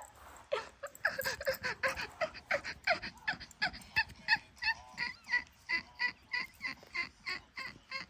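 Domestic cat making a rapid string of short, high-pitched calls, about three or four a second.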